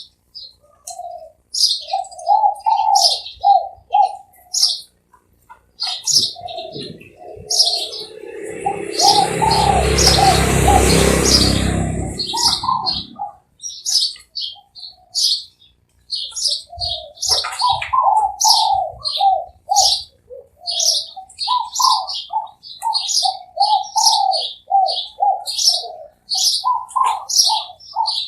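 Spotted doves cooing in repeated phrases of low coos, over steady high chirping from smaller birds. A rush of noise lasting a few seconds covers the sound about a third of the way in.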